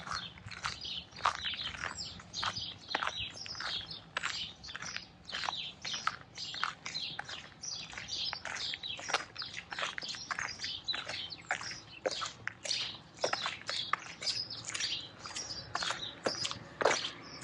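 Small birds chirping in a busy, continuous stream of short sharp calls, several a second and overlapping.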